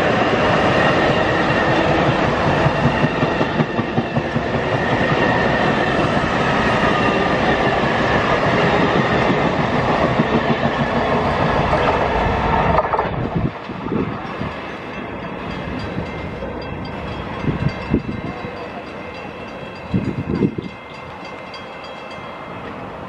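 A train running close by: loud rumbling rail noise with a steady whine over it for about thirteen seconds. The noise then drops off sharply to a quieter hum, with a few short thuds later.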